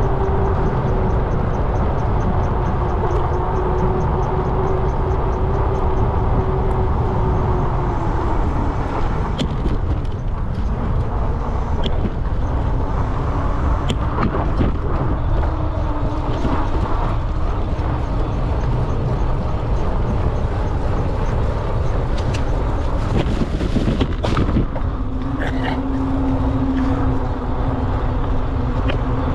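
Electric bike ride: wind rumbling on the microphone and road noise, with a steady whine that drops in pitch about eight seconds in and runs lower again near the end.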